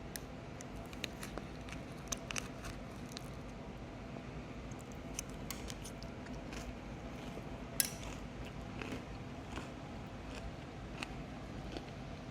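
Quiet room tone with scattered small clicks and taps, like small objects being handled; the sharpest click comes about eight seconds in.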